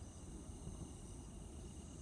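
Crickets chirring steadily, over a constant low rumble.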